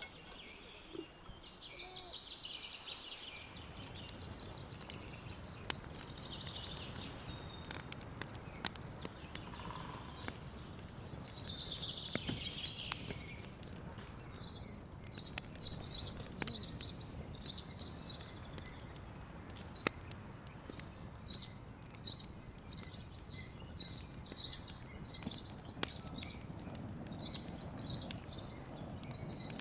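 Small birds chirping in quick clusters of short high notes, sparse at first and then busy and louder from about halfway through, over a low steady background noise.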